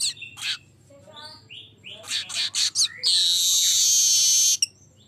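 Manyar weaver singing: a run of quick chips and chattering notes, then, about three seconds in, a loud hissing buzz held for about a second and a half that stops sharply.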